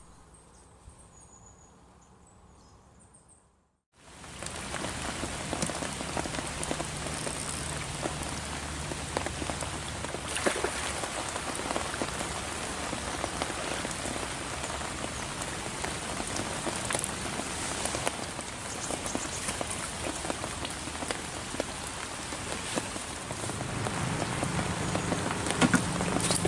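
Heavy rain pouring onto a lake's surface: a steady, dense hiss of drops striking the water with scattered sharper splashes. It starts abruptly about four seconds in, after a few seconds of quiet.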